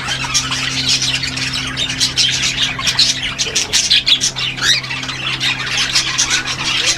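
Many caged parrots, such as lovebirds, squawking and chattering together in a constant dense stream of short, high calls, over a steady low hum.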